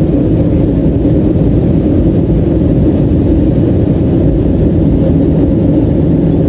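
Steady, loud low rumble of a Boeing 737-300 heard from inside the passenger cabin: its CFM56-3 engines and airflow make an even drone with no changes.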